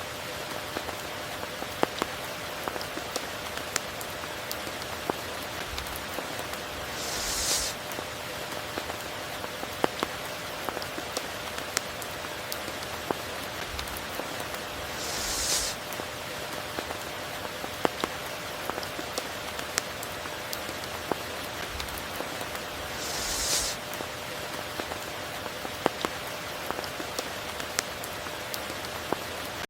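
Steady rain falling, with many single drops ticking sharply on a near surface. About every eight seconds a short high hiss swells up and cuts off.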